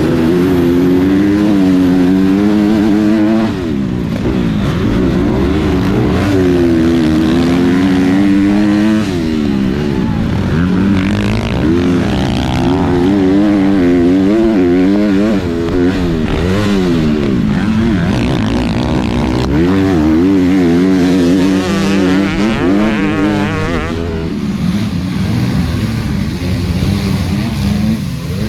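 Motocross dirt bike engine revving up and down over and over as it is ridden hard around a track, pitch climbing through each gear and dropping off between.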